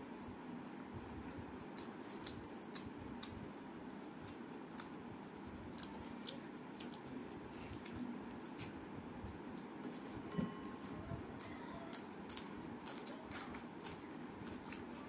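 A woman chewing mouthfuls of hand-eaten rice and potato mash, close up, with scattered short mouth clicks over a steady background hiss. A single louder click comes about ten seconds in.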